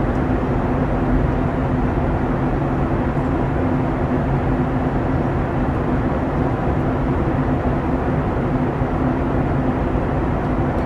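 Boeing 737-900ER in flight, heard from inside the cabin: a steady drone of its CFM56 engines and rushing air, with a constant low hum.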